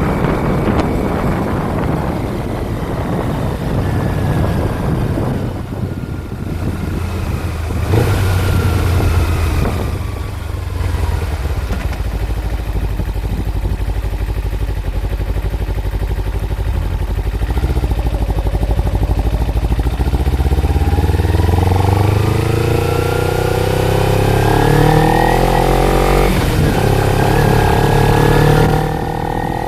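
Kawasaki Ninja 250 motorcycle engine running under way: its pitch falls over the first ten seconds or so, holds fairly steady, then climbs as the bike accelerates from about two-thirds of the way in, dropping suddenly near the end as at a gear change.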